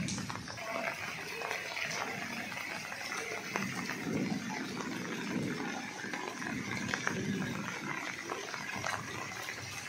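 Steady rain falling on standing floodwater, with scattered clicks and some low, indistinct sounds around the middle.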